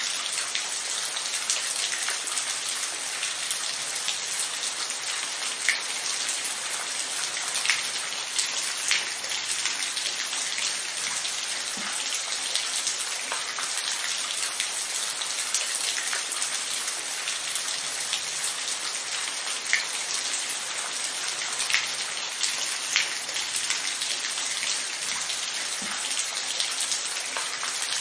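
Steady rain with a constant hiss and scattered individual drops ticking on a surface, some louder than the rest.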